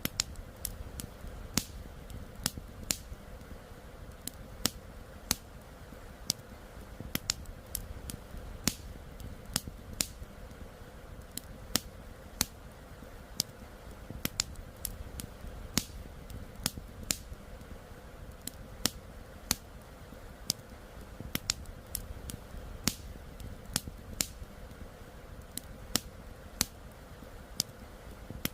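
Wood campfire crackling: irregular sharp pops and snaps, several a second, over a steady rush of flowing river water.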